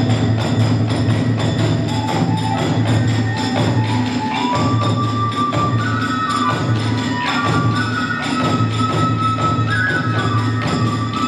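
Hiroshima kagura hayashi music: a bamboo flute melody climbing in steps over fast, dense jangling of small hand cymbals and a steady beat on a large drum.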